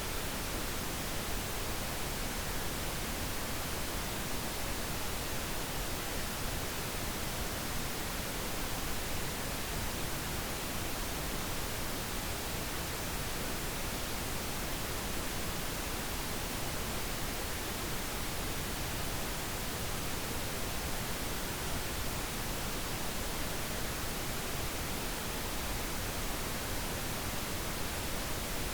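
Steady pink noise: an even, unchanging hiss spread across the whole range of pitch, with no tones or clicks.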